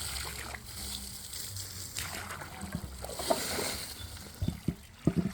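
Water trickling and splashing into a bird bath as it is refilled with fresh water, with a few sharp knocks near the end.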